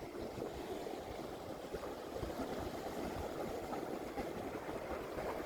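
Steady wash of sea water at the shoreline, an even rushing noise without distinct breaks.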